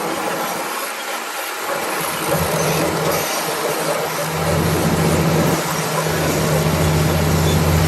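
Komatsu D65PX bulldozer's diesel engine running under the broad clatter and noise of the working crawler. A steady low drone comes in about two seconds in and grows louder about halfway through as the engine pulls harder.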